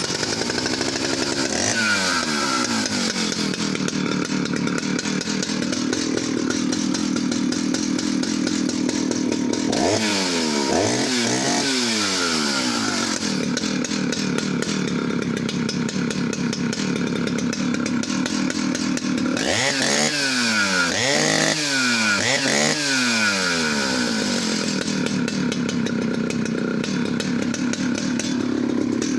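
Stihl 051AV two-stroke chainsaw running just after starting, a big saw with strong compression. Its pitch settles from a high speed in the first couple of seconds. It then runs steadily, with a few quick throttle blips about ten seconds in and three more about twenty seconds in.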